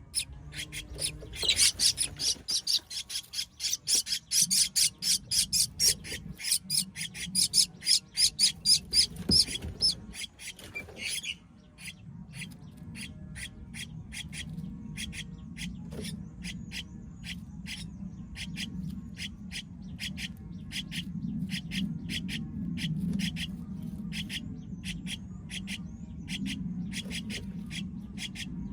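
Baby bird calling with rapid, evenly repeated high chirps, several a second: loud for about the first ten seconds, then fainter but still steady. A low hum runs underneath.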